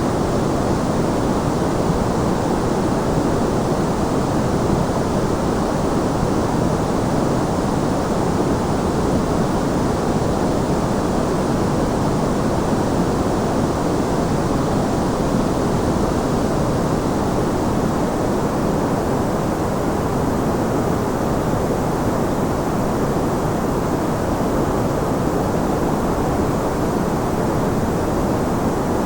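Steady white noise for sleep: a constant, even rushing hiss, weighted toward the low end and dull above, with no changes or breaks.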